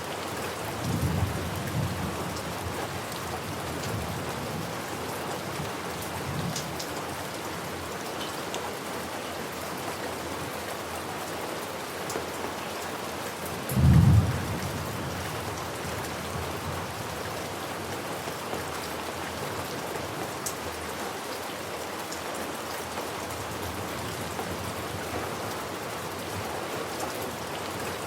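Steady heavy rain with rumbles of thunder: low rolls about a second in and again soon after, and one short, loud low clap about halfway through.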